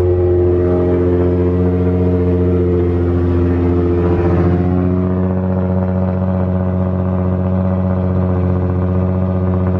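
Nissan 350Z's V6 engine just started and idling steadily and loudly, its higher sound easing off about five seconds in.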